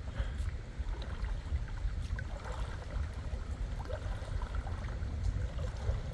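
Wind buffeting the microphone in a steady, uneven rumble, with faint small splashes and lapping of water.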